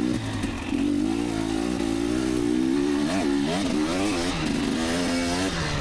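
Two-stroke dirt bike engine running under a light, uneven throttle as it is ridden, its pitch wavering constantly, with short rises in revs about three seconds in and again near the end.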